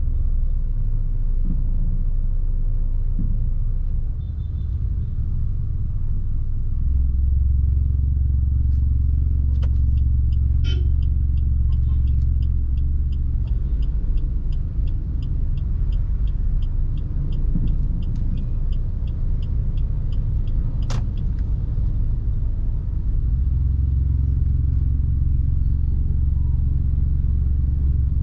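A car being driven: a low, steady engine and road rumble that swells louder twice. In the middle comes a run of even ticks, about four a second, lasting several seconds, followed by a single sharp click.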